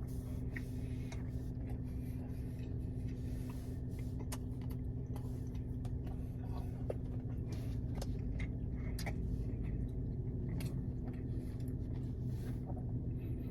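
Chewing a biscuit with the mouth close to the microphone: scattered small wet clicks and smacks over a steady low hum.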